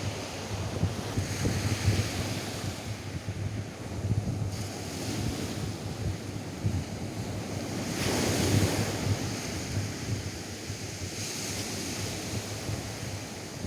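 Atlantic surf washing onto a sandy beach, the hiss of the breaking waves swelling and fading, loudest about eight seconds in. Wind buffets the microphone underneath.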